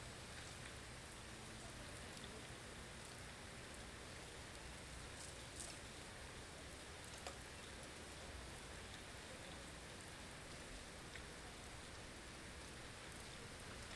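Blizzard ambience: a quiet, steady hiss of wind-driven snow over a low rumble, with a few faint ticks, the clearest about five and a half and seven seconds in.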